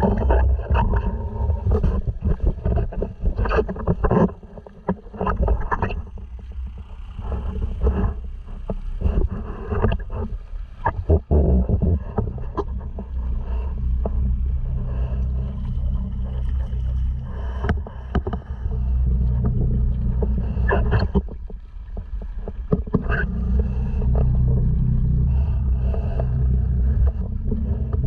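Honda 2.3 hp four-stroke outboard motor running steadily at a constant speed, pushing a sea kayak, with irregular splashes and knocks throughout.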